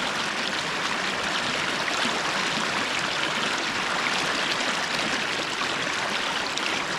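Steady rush of the South Fork American River's current running over rocks.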